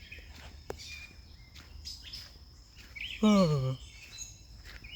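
Outdoor ambience of a steady high insect drone with scattered faint bird chirps. About three seconds in, a person makes one short vocal sound that falls in pitch, like a hum or sigh.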